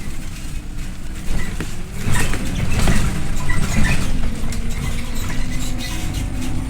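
Scania OmniLink I city bus under way, heard from inside: a low engine drone whose pitch slowly falls and rises, with scattered clicks and rattles from the body.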